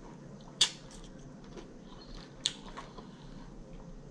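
A person chewing a mouthful of lettuce salad, with two sharp wet clicks, the first about half a second in and the second about two and a half seconds in.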